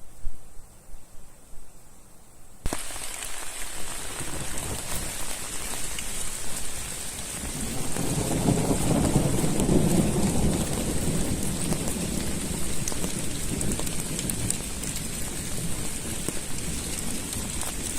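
Heavy rain comes in abruptly about three seconds in, after a few low thumps, as a dense steady hiss. A low rumble of thunder swells around the middle and slowly fades under the rain.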